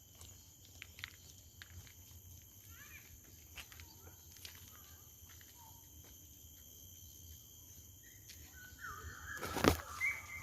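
Quiet open-air ambience with a few faint ticks. Near the end a bird starts calling in a run of harsh, repeated notes, and a single sharp knock sounds just before the calls peak.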